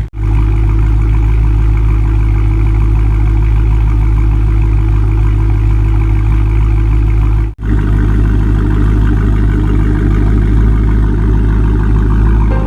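Dodge Charger Scat Pack's 392 Hemi V8 idling steadily through a mid-muffler-delete exhaust, an even, low exhaust note. The sound breaks off briefly twice, right at the start and about seven and a half seconds in.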